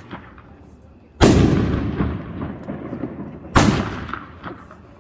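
Two shots of a 500-gram fireworks cake going off, about two and a half seconds apart: each a sudden heavy boom of an aerial shell breaking, trailing off over a second or two.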